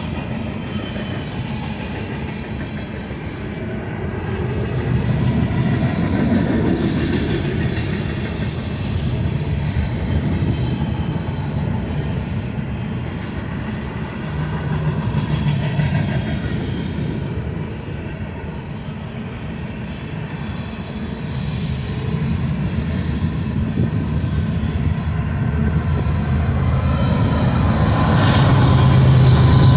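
Freight train rolling past on the main line: a continuous rumble of wheels on rail that swells and eases, growing louder near the end.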